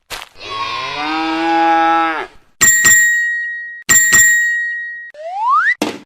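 A cow mooing once, a call of about two seconds. It is followed by two bright ringing dings and a short rising whistle near the end.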